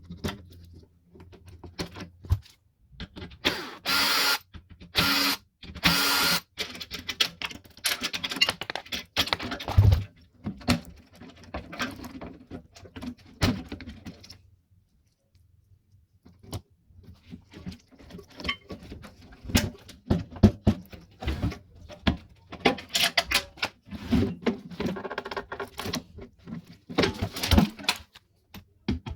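Microwave oven being dismantled: metal knocks, clanks and rattles of sheet-metal parts and hand tools, with a power drill running in several short bursts. A brief lull comes about halfway through.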